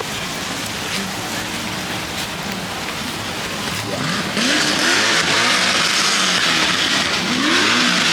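Steady rain with car engines revving, their pitch rising and falling twice; about four seconds in a much louder hiss of rain sets in.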